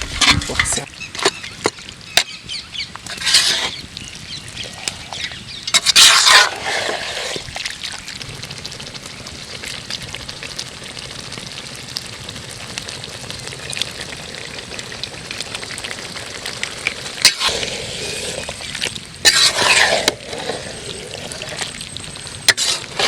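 Mutton frying in onion-tomato masala in a pot: a steady sizzle with sharp clicks of a ladle against the pot as it is stirred, and a few louder bursts about a second long.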